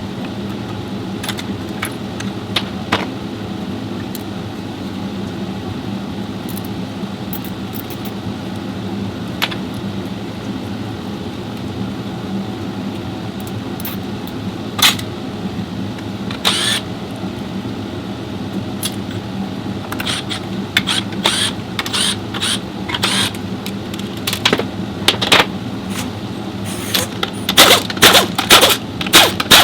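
A steady mechanical hum with scattered sharp clicks and clinks over it. The clicks come thick and fast, and loudest, in the last few seconds.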